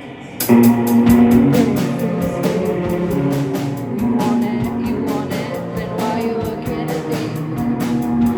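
A rock band playing live, kicking in abruptly about half a second in with a steady drum beat.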